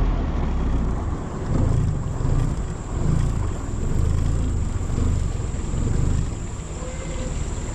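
Small boat's motor running under way, a low rumble that swells and falls about once a second over a steady hiss of wind and water.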